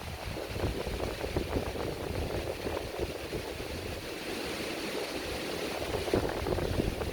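Wind buffeting the microphone with an uneven low rumble, over the steady crackle and hiss of a campfire.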